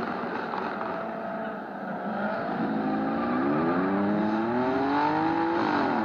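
Sports car engine revving hard: the pitch climbs steadily for about three seconds from a couple of seconds in, then drops sharply near the end, over a steady din of other cars.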